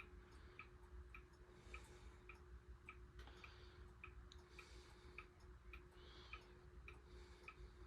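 Faint, steady ticking of mechanical wind-up clocks, with the SMC A52 ceiling fan's low, steady hum beneath it.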